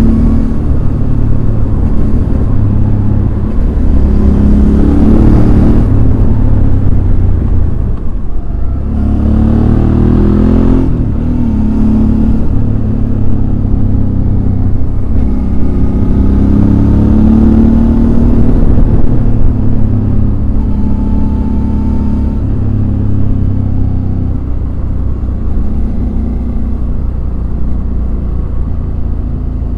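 Suzuki DL650 V-Strom's 645 cc V-twin engine running steadily under way. About eight seconds in the engine note drops, then rises again as it accelerates.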